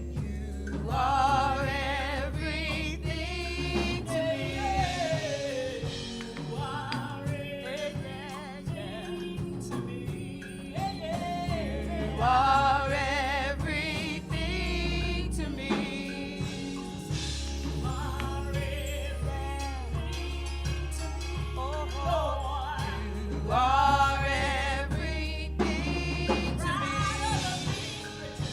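Gospel worship music: voices singing with vibrato over a band with a sustained bass.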